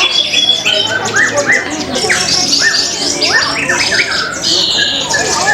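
Many orange-headed thrushes singing at once: a loud, dense tangle of rapid whistled phrases, chirps and chattering notes, overlapping without a break.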